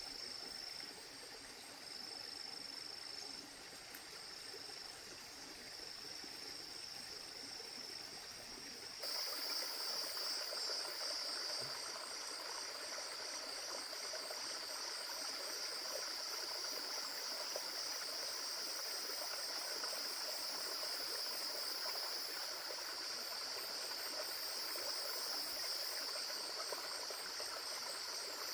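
A steady, high-pitched chorus of forest insects, with a faint, evenly pulsing trill above it. About nine seconds in it jumps abruptly louder and fuller, and stays that way.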